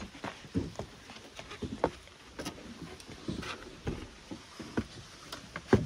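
Irregular knocks, bumps and scuffs of a small RV refrigerator being carried and maneuvered by hand, with a heavier thump near the end.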